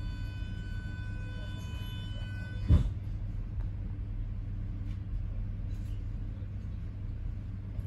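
Passenger train running: the steady low rumble of the moving carriage. For the first two and a half seconds a steady high whine sits over it; it stops just before a single loud thump.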